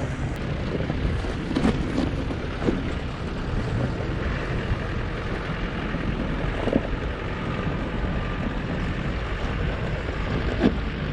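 A 4x4 vehicle's engine running steadily at low revs, with a few short knocks and wind on the microphone.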